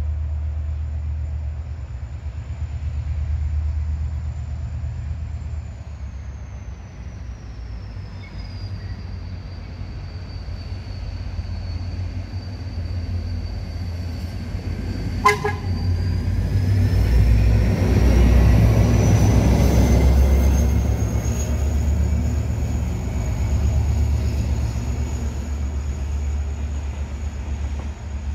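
EMD GT22HW-2 diesel-electric locomotive running with a deep, steady rumble and a thin high whine that falls and then climbs again. A very short horn toot comes about halfway through, and soon after the engine grows louder for several seconds.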